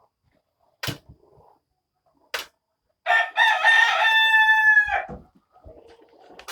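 A rooster crowing once, one long pitched call of about two seconds that falls away at the end, preceded by a couple of sharp taps.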